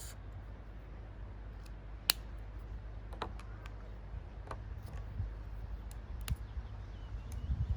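Marker drawing: a few sharp clicks from markers being handled, the loudest about two seconds in, over a steady low rumble that swells near the end.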